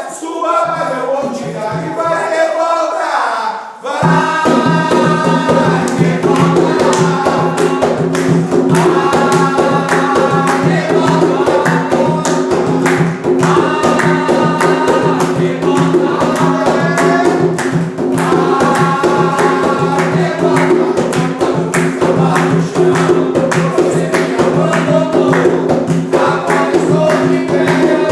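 Group singing an Umbanda ponto, a devotional chant, with voices alone at first. About four seconds in, a full accompaniment comes in under the singing, with steady held low notes and fast, even percussion.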